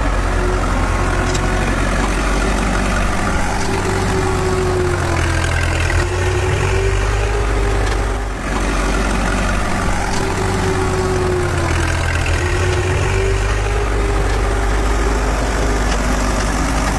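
Heavy truck engine running steadily with a deep rumble, its whine rising and falling in slow swells every few seconds.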